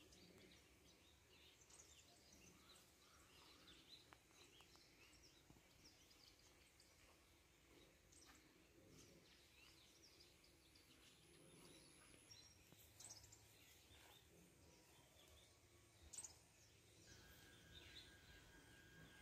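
Near silence: faint background hiss with faint, scattered bird chirps.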